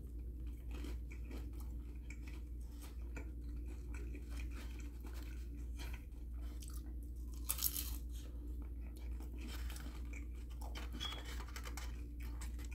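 Close-up chewing of a bite of fried peach mango hand pie: irregular crunches of the crisp crust and mouth sounds. One crunch about seven and a half seconds in is louder than the rest.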